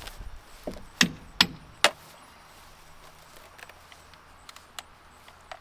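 Three sharp knocks about half a second apart, then a few faint clicks, as tools or parts are handled while working on the truck.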